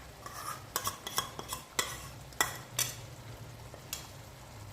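A spoon stirring yogurt mixture into chicken masala in a kadhai, knocking and scraping against the pan in irregular clacks that thin out after about three seconds, over the low sizzle of the frying masala.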